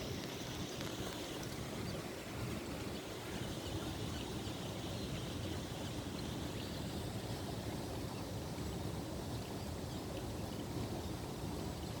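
Steady outdoor rumble and hiss, like wind on the microphone or distant traffic, with faint, scattered high peeps from Eurasian coot chicks.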